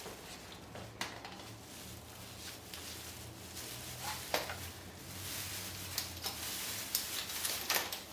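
Rustling and scattered light clicks of Christmas tree branches being handled and set in place, with the rustle thickening a little over halfway in.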